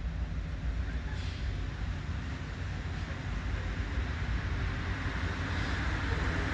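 Low rumble of an approaching diesel locomotive, CPKC GP20C 2246, with wind buffeting the microphone; a rising hiss of rail and wheel noise builds over the last few seconds as the train draws nearer.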